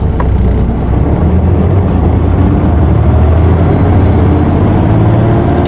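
Isuzu Erga city bus (PKG-KV234L2) six-cylinder diesel engine heard from inside the cabin, pulling away from a stop, its note climbing slowly as it revs up.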